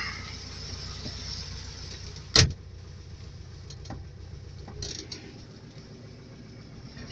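ZAZ 968M's air-cooled V4 engine idling, with one sharp, loud thump about two and a half seconds in, then a few light clicks.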